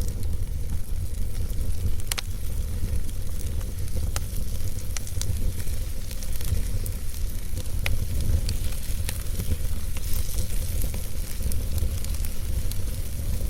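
Wood fire burning in a fireplace: a steady low rumble of flames with scattered sharp pops and crackles from the burning logs.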